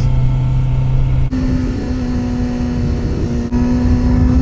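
Kawasaki Z900RS Cafe's inline-four engine running under way, with wind rumble on the helmet-mounted microphone; about a second in, the engine note drops out briefly and comes back at a clearly higher pitch, which it holds, with another short dip near the end.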